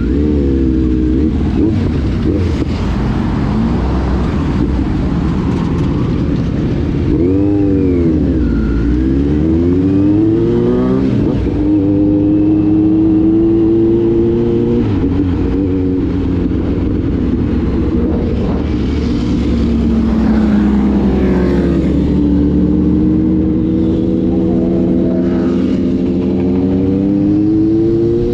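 Road vehicle engine running on the move, its pitch climbing and dropping again and again as it accelerates and changes gear, over a steady rush of wind and road noise.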